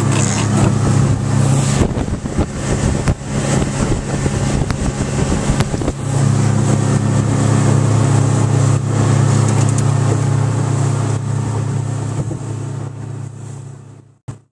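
Mercury 150 hp EFI FourStroke outboard running steadily with the boat under way, a steady low engine hum. For a few seconds, starting about two seconds in, the hum is broken up by rough, uneven noise, then it comes back steady and fades out near the end.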